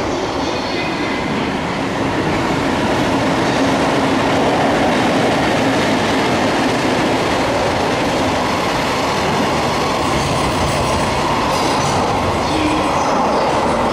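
Freight train of flat container wagons hauled by an EF65 electric locomotive running through a station: a loud, steady noise of wheels on rail.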